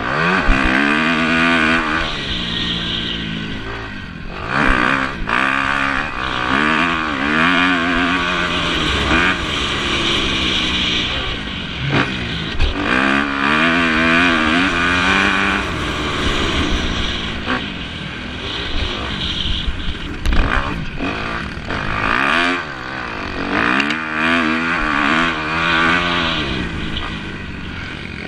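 Motocross bikes racing, several engines revving hard and dropping back again and again as riders shift and brake through the course.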